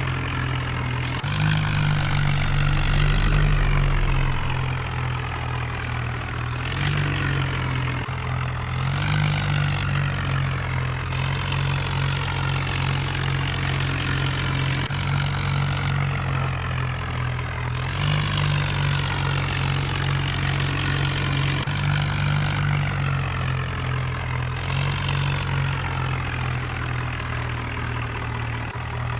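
Tractor engine running steadily, its pitch stepping up and down a little several times, with bursts of higher hiss that come and go.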